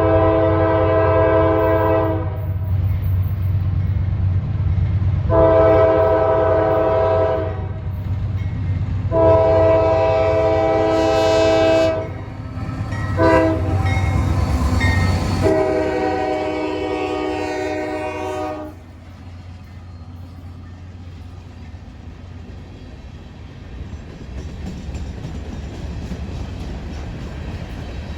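Norfolk Southern freight locomotive's air horn sounding three long blasts, one short, then a final long one, the pattern of a grade-crossing signal, over the low rumble of the passing train. The horn stops about two-thirds of the way through and the train's rumble carries on more quietly.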